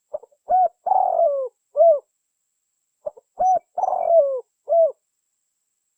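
Spotted dove cooing: two identical phrases about three seconds apart, each a few short notes, a coo, a longer falling coo and a final coo.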